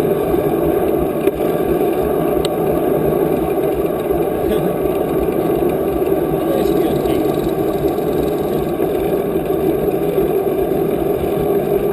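Steady rushing wind noise buffeting the microphone while cycling, mixed with the hum of the ride.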